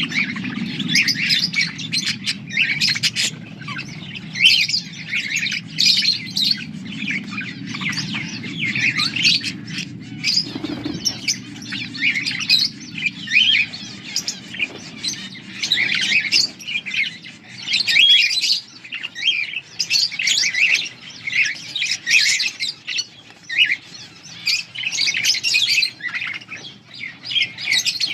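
Budgerigars chirping and chattering in a dense, unbroken stream of short, high calls. A low, steady hum under them fades out about ten seconds in.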